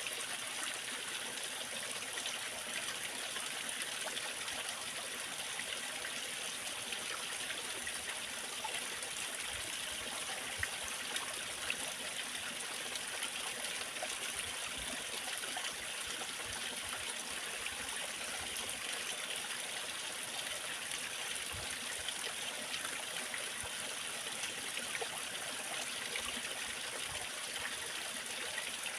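Waterfall: water falling and splashing steadily, an even bright hiss with small splashes scattered through it.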